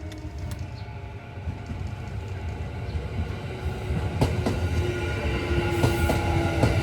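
Kintetsu 9820 series electric train approaching and growing steadily louder, with wheel clacks over rail joints from about four seconds in and a steady tone setting in near the middle.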